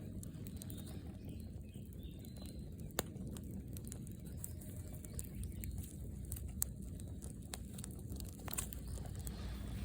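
Wood campfire crackling: scattered small snaps over a steady low rumble, with sharper pops about three seconds in and again past six seconds.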